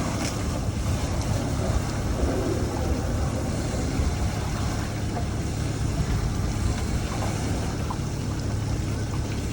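A steady engine rumble with an even hiss over it, unchanging throughout.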